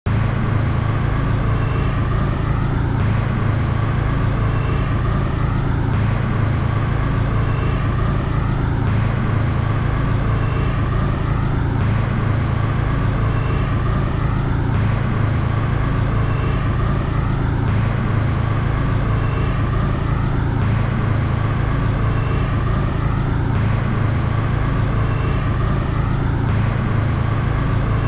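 Steady road-vehicle engine and traffic noise with a strong low hum. The same pattern recurs about every one and a half seconds, like a short repeating loop.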